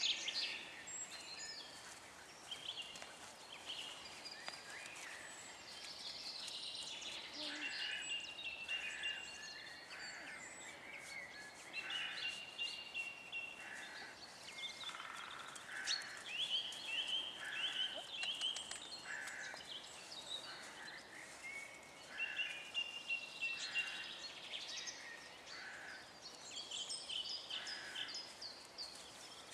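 Birds chirping and singing, many short calls and brief whistled notes repeating throughout over a faint outdoor hiss.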